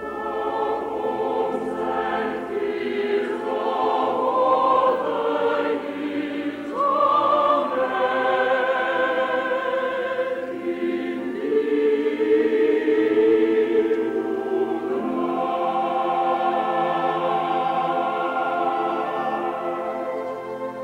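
Choir singing a Christmas carol in long, held notes with vibrato.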